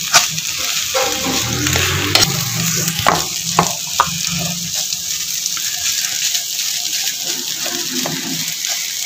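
Food frying and sizzling in a wide black pan while a metal spatula stirs it and scrapes across the pan, giving a steady hiss broken by irregular scrapes and clicks.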